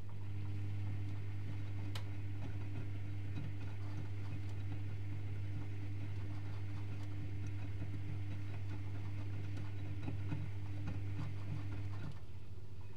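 Privileg Multispar 5110 washing machine turning its drum in the wash phase of a 75°C boil wash: a steady motor hum with faint clicks from the tumbling load, the motor stopping about twelve seconds in.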